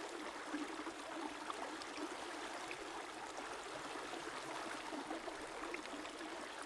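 A river's water flowing steadily over stones, with a soft, even rush and faint trickles and splashes scattered through it.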